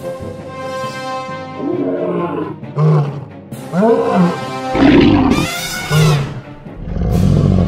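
Several wild-animal roars and calls, one after another, laid over background music.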